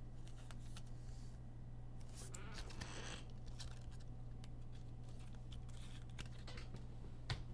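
Trading cards and foil pack wrappers being handled: soft scattered clicks with a short crinkling rustle about two to three seconds in, over a steady low electrical hum.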